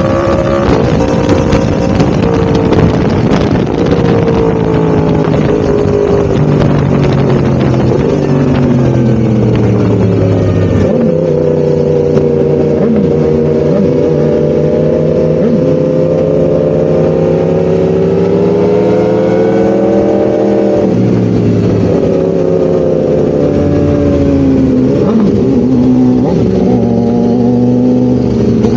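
Yamaha R1-M's crossplane inline-four engine running continuously, its pitch slowly rising and falling, with sudden changes in the engine note about eleven and twenty-one seconds in.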